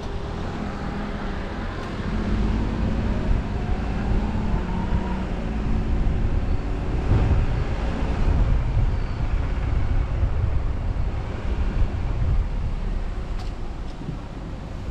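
A car driving: engine and road noise with a heavy low rumble. The engine note rises as the car picks up speed a couple of seconds in, then holds steady.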